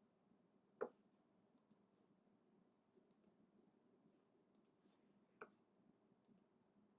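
Faint clicks of a computer mouse, some in quick press-and-release pairs, with two slightly louder taps about a second in and near five and a half seconds in.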